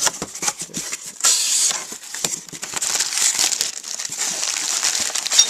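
Packing material and plastic bags crinkling and rustling as a product box is opened and unpacked, with irregular crackles and a sharp click near the end.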